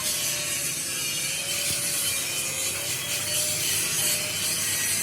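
Steady workshop machining noise: a continuous rasping hiss with a faint wavering tone.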